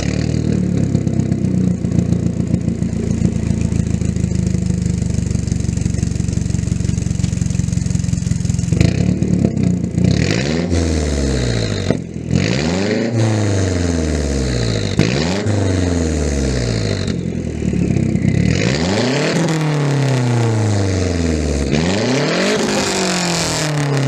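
Mazdaspeed 6's turbocharged 2.3-litre four-cylinder idling steadily through a 3-inch downpipe and 2.5-inch exhaust, then, about nine seconds in, blipped several times in a row, each rev climbing quickly and dropping back slowly to idle.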